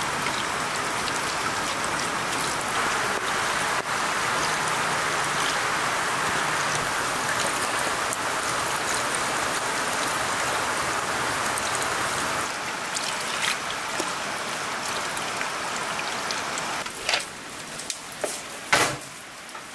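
Steady rain falling, louder for about the first twelve seconds and then softer, with a few sharp knocks near the end.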